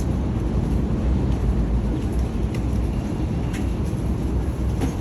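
Steady low rumble of road traffic, with a few faint clicks about two and a half, three and a half and near five seconds in.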